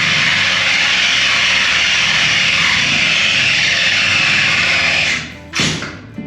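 A loud, steady rushing hiss that stops suddenly about five seconds in, followed by a single sharp knock.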